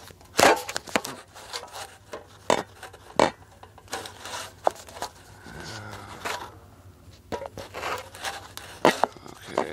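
Handling noise close to the microphone: a series of irregular knocks and clicks with scraping and rubbing between them, as things are moved about and set down.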